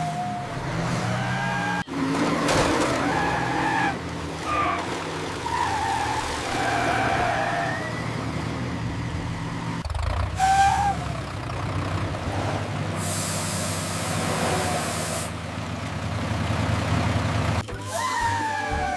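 Heavy construction-vehicle engines running under strain, with squealing, gliding tones and a stretch of hiss partway through. The sound changes abruptly several times.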